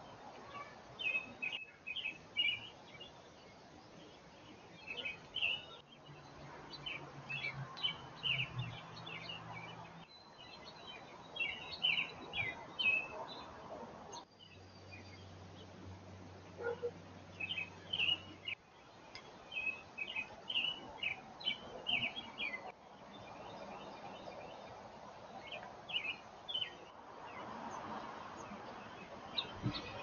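Small wild birds chirping in quick series of short, high notes, with brief breaks every four seconds or so where the recording cuts.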